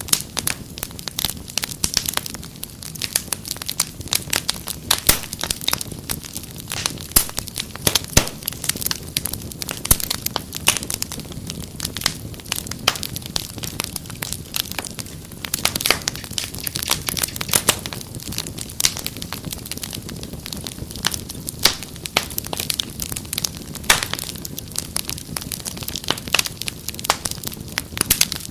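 Wood fire crackling steadily, with frequent sharp pops and snaps over a low hiss of burning.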